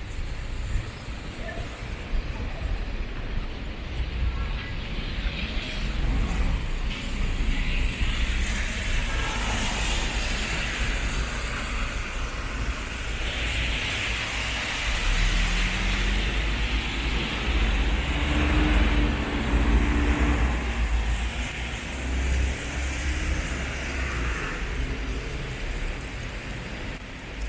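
Road traffic passing, a steady low rumble with rushing tyre noise, swelling louder as vehicles pass about halfway through and easing off near the end.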